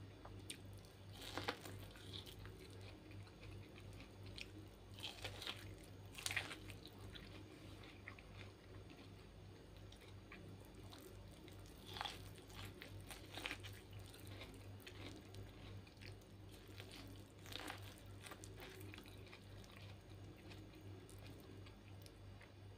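Chewing and biting boiled corn on the cob, with short crisp crunches every few seconds. A faint steady hum runs underneath.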